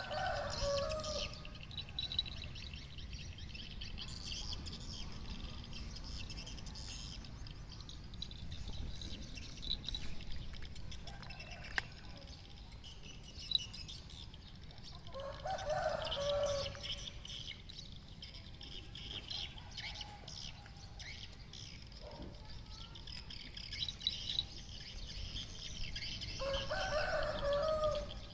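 Small birds chirping continuously. A louder, lower call, each about a second and a half long, comes three times: at the start, about halfway through, and near the end.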